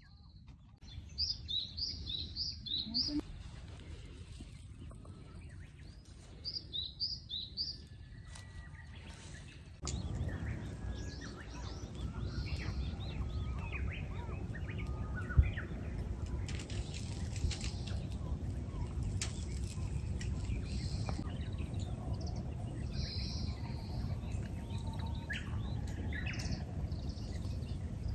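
Songbirds singing: a quick run of about six short, high, falling chirps, heard twice, then scattered calls. About ten seconds in, a steady low rumble of outdoor background noise comes in beneath the calls, with one sharp click partway through.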